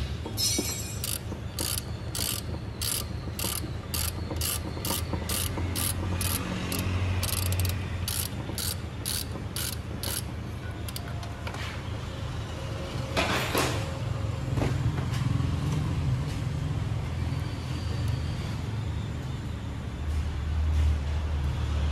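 Hand ratchet wrench clicking about twice a second as engine-mount bolts are worked loose, over a steady low hum. About thirteen seconds in there is a short rasping noise.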